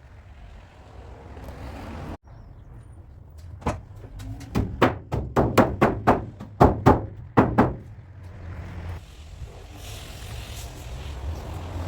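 A run of about a dozen hammer blows on car body sheet metal, two or three a second, over a steady low hum.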